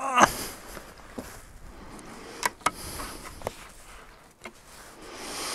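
Scattered sharp clicks and light rustling of riding gear being handled, with a short vocal sound right at the start.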